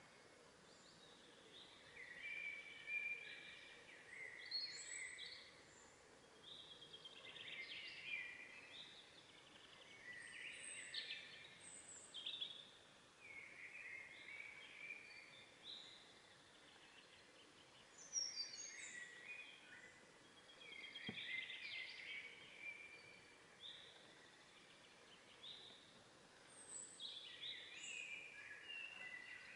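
Faint birdsong: short, varied, warbling phrases from songbirds, recurring every two to three seconds over a soft background hiss.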